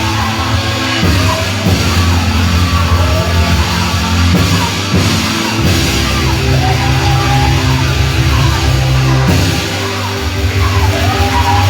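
Loud live praise music from a church band: heavy sustained bass chords that change every few seconds, with a wavering melody line on top.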